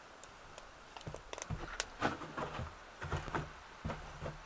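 Wood fire in the BioLite Basecamp stove's firebox crackling, with scattered sharp pops and snaps. Low rumbles come and go from about a second and a half in. The stove's fan is too quiet to hear.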